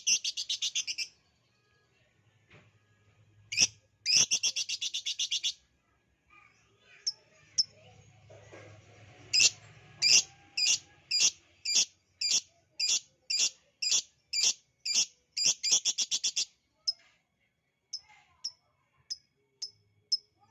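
Lovebird calling: sharp, high chirps, at times run together into fast rattling trills, then a long series of evenly spaced chirps about two a second that speeds up into a quick run near the end, followed by a few softer chirps.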